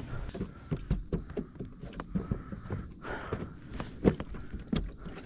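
Irregular knocks, clicks and scraping in a kayak as the seat and hull are handled and groped under, while a dropped bluegill is searched for.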